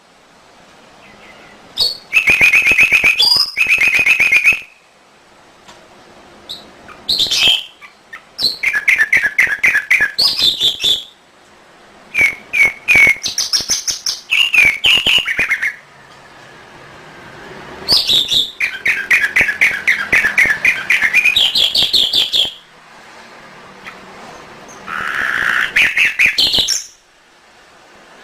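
Domestic canary singing in phrases of rapid trills, some rising in pitch, with short pauses between about five phrases.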